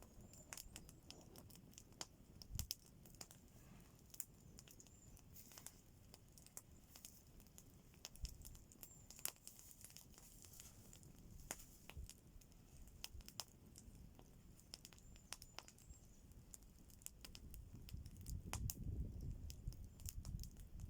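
Faint, irregular sharp crackles and clicks over near silence, with a low rustling rising near the end.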